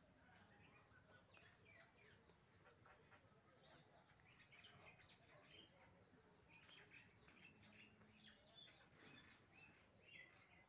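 Faint bird chirping: a rapid scatter of short, high calls, busier from about four seconds in.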